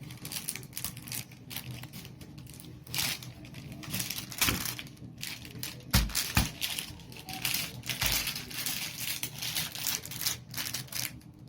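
Crinkly blind-bag packaging rustling and crackling in irregular bursts as it is handled and opened.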